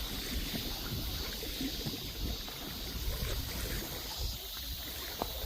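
Wind buffeting the microphone over the sea washing at the shore: a steady, uneven rumbling noise.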